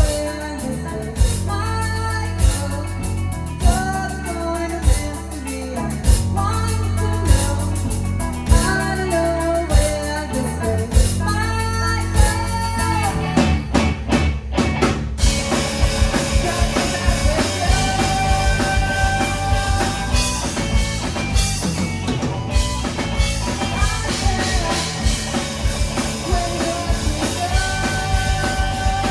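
Live band playing a song: a singer over drum kit, bass and electric guitar. About halfway, a short drum break leads into a fuller, louder section with long held notes.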